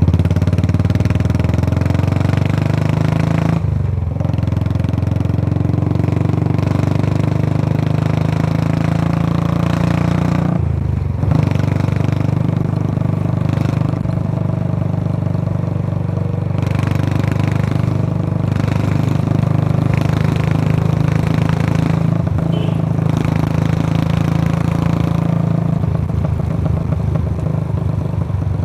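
Royal Enfield Classic 350's single-cylinder engine running through a short-bottle Punjab silencer while riding, a steady deep exhaust thump. The engine note dips briefly twice, about 4 and 11 seconds in.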